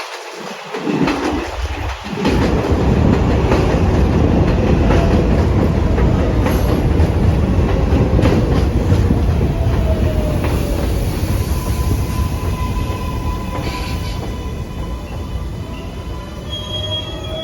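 R188 subway train rolling into the station: a loud rumble of wheels on the rails starts about two seconds in, with wheel and brake squeal, thin tones that slide in pitch as it slows in the second half.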